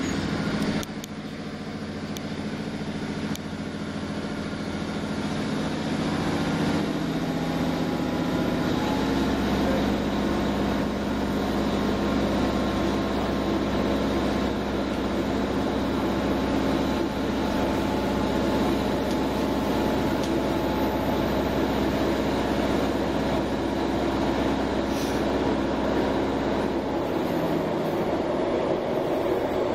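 Diesel multiple-unit train heard from inside the carriage as it pulls away. Engine and running noise build over the first several seconds with a rising whine, then settle into steady running on the rails. The low engine note eases off a few seconds before the end.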